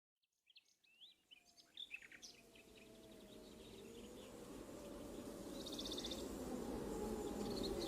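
Birds chirping in short calls over the first couple of seconds, then a brief fast trill. Underneath, a low, even wash of ambient sound fades in and grows steadily louder.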